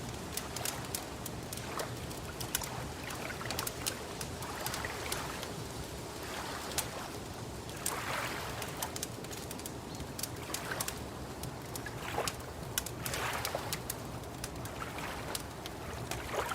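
Wood fire crackling, with frequent sharp pops and snaps over a steady low bed, and a few soft swells of noise that rise and fade every few seconds.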